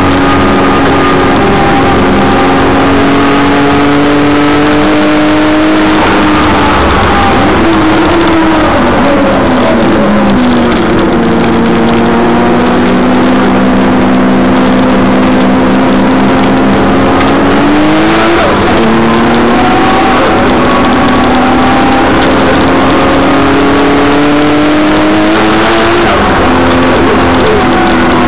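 Nissan Skyline GT-R's twin-turbo straight-six engine at racing speed, heard from inside the cabin. Its pitch climbs slowly under acceleration and drops several times, sliding down once and falling sharply twice at gear changes.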